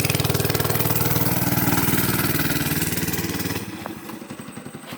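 Small dirt bike engine running with a steady, fast pulse, then dropping sharply in loudness about three and a half seconds in and carrying on more quietly.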